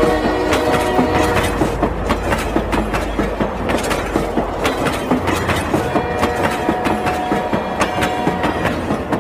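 Battery-powered toy train running along a concrete plank, its motor and wheels giving off a fast, continuous clatter of clicks. Past the middle, a steady electronic tone sounds for a couple of seconds over the clatter.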